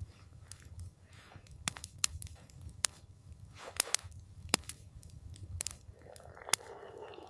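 Campfire crackling: irregular sharp pops and snaps from the burning wood over a low, steady rumble. A soft rushing swell comes in near the end.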